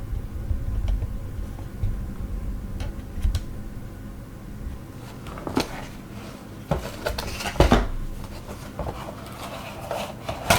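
Hands handling a boxed nail gel set: scattered small clicks, knocks and rustles of packaging and plastic pieces, busiest from about five to eight seconds in.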